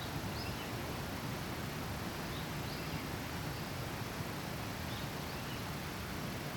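Steady outdoor background hiss with faint, short chirps of small birds scattered through it, about half a dozen times.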